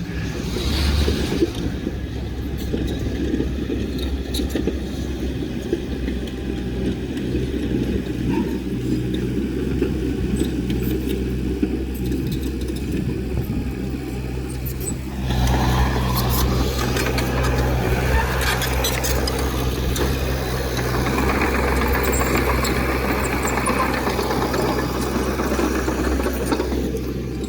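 Heavy earthmoving machine's diesel engine running steadily. It grows louder and harsher about halfway through.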